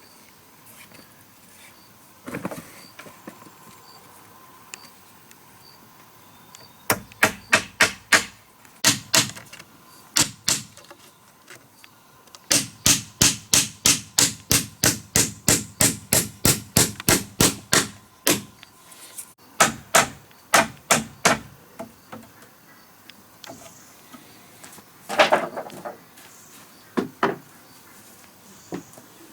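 Hammer blows on wood in quick runs of about three strikes a second, the longest lasting about six seconds, with a few single knocks near the end.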